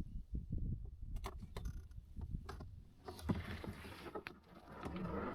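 Kayak being paddled: the paddle blades splash and drip in the water, with several short knocks scattered through the strokes.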